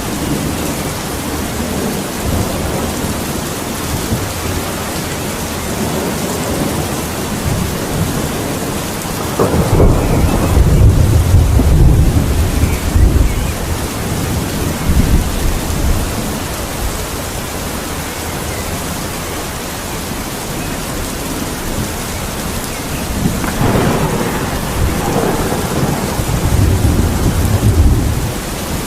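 Steady heavy rain with thunder rolling twice, once about a third of the way in and again near the end, each a deep rumble lasting several seconds.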